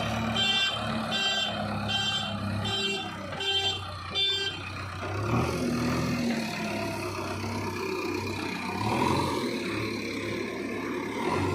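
JCB 3DX backhoe loader's diesel engine running, with its reversing alarm beeping about twice a second until about four and a half seconds in, after which the engine carries on alone.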